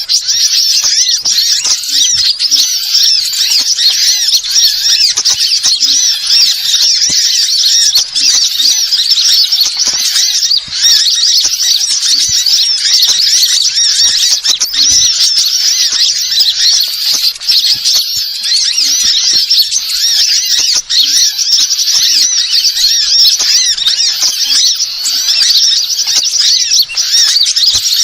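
Birds chirping rapidly and continuously in a dense, high-pitched chorus, played as a bird-trapping lure call.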